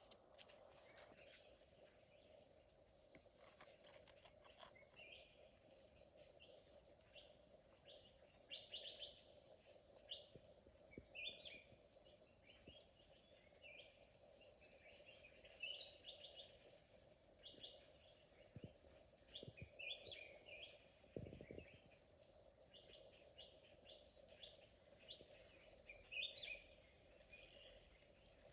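Faint rainforest chorus: a steady high insect drone over a lower steady hum, with repeated rapid chirping trills and scattered bird-like calls.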